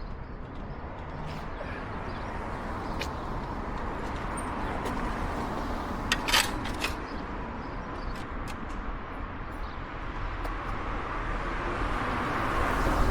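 Solex 1700 moped's small two-stroke engine running outdoors, growing louder near the end, with a few short clicks about halfway through.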